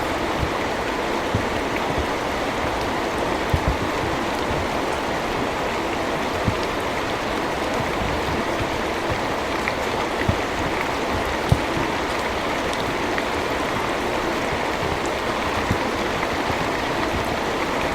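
Heavy rain falling steadily, with a few louder single drops or splashes standing out now and then.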